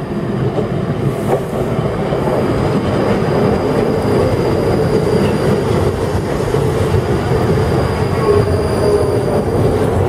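ScotRail Class 380 electric multiple unit running along the platform, a steady rumble of wheels on rail with a thin high squeal held above it.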